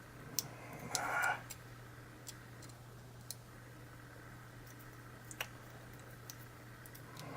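Scattered small metallic clicks and ticks of hand tools working on a lock while trying to take it apart, with a short scrape about a second in. A steady low hum runs underneath.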